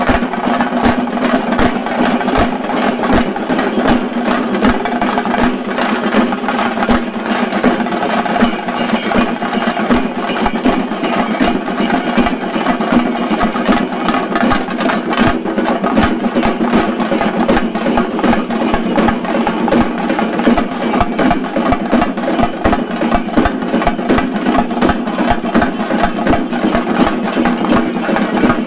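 Shinkari melam: a troupe of chenda drums beating a fast, dense, continuous rhythm at full loudness.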